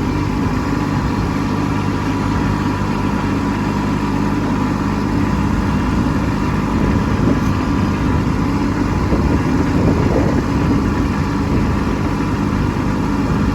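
Kubota B2601 compact tractor's three-cylinder diesel engine running steadily while the tractor makes a snow-plowing pass, swelling slightly about two-thirds of the way through.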